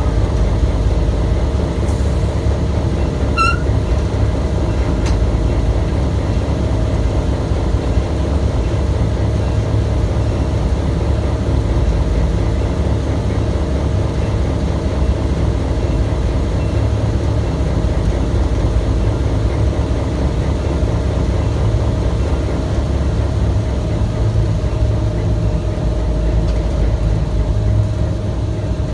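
Steady low rumble of a slow-moving train's wheels on the rails and its running gear, heard from the window of the train, with a steady hum under it. A short high squeak about three and a half seconds in.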